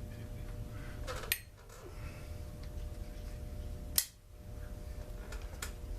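Two sharp clicks about three seconds apart over a steady low hum, typical of hand tools or parts knocking during disassembly of a chainsaw.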